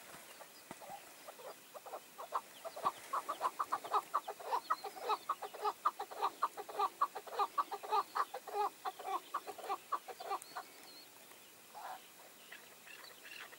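Chukar partridge calling: a fast chuck-chuck series of short notes, about five a second, building about two seconds in and breaking off past the middle.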